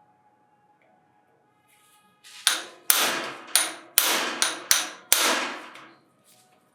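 Hammer blows on metal during disassembly: seven sharp strikes in quick succession, about two a second, each ringing briefly as it dies away.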